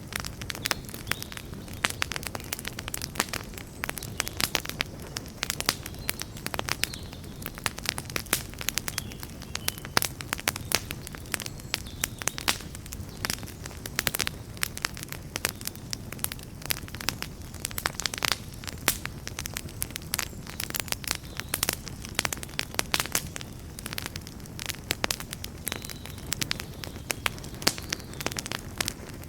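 Campfire burning, with dense irregular crackles and pops over a steady low rumble of flames.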